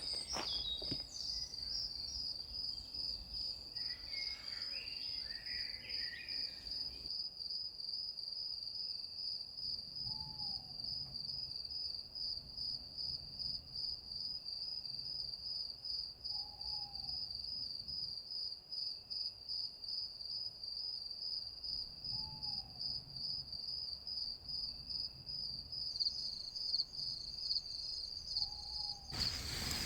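Crickets chirping in a steady, fast pulsing trill, with a short falling call from another animal repeating about every six seconds. A few clicks and rustles come in the first several seconds.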